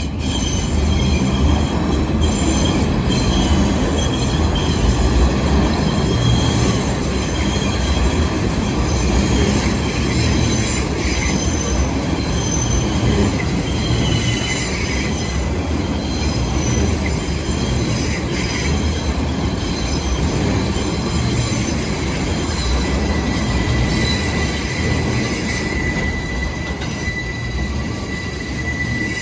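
R142 subway train pulling into a station: a steady loud rumble of wheels on rail, with a thin high wheel squeal coming in over the last few seconds.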